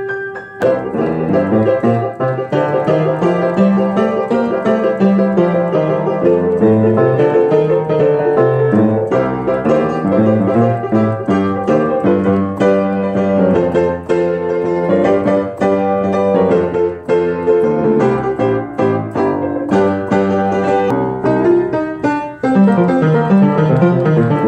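Background piano music, many notes played in a steady flowing pattern.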